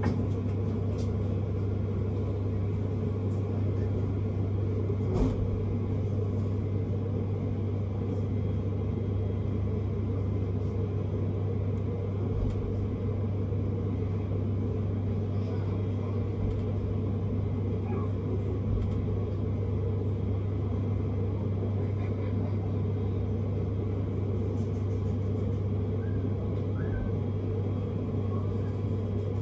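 Vienna S-Bahn commuter train running, heard from inside the passenger car: a steady rumble with a strong low hum and a few faint clicks.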